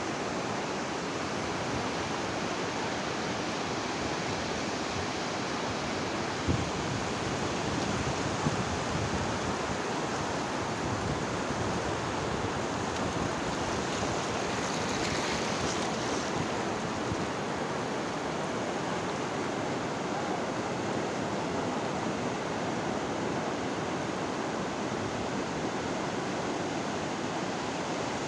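Sea waves breaking and washing on the shore: a steady surf noise that swells into a brighter hiss about halfway through. Two brief thumps come a few seconds in.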